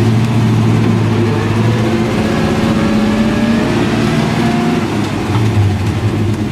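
1963 Chevrolet C30 one-ton truck's engine pulling away in first gear, heard from inside the cab. A whine rises in pitch from about two seconds in and fades near the five-second mark.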